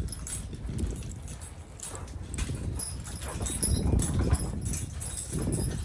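Draft horses' hooves clip-clopping as a team is driven, over a steady low rumble.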